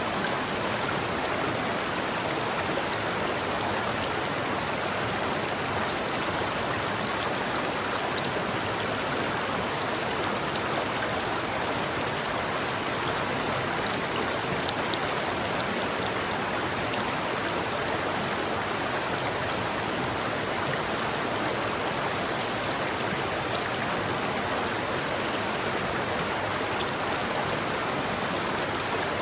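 River water flowing, a steady even rush of a stream over rocks.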